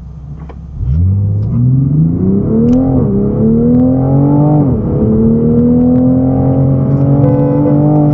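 Car engine pulling away and accelerating through the gears. Its pitch climbs, then drops sharply twice at the upshifts before rising steadily again.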